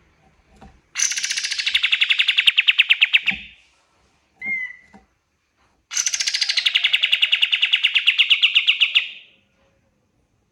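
A caged kapas tembak songbird singing two long, fast trills of rapid repeated notes, each sliding downward in pitch and lasting about two and a half seconds, with a short whistled note between them.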